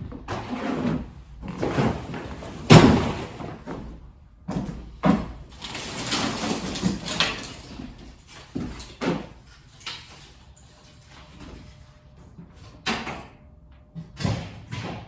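Pieces of wood being thrown down and landing: a run of irregular thuds and clatters, the loudest about three seconds in, with fewer and quieter ones toward the end.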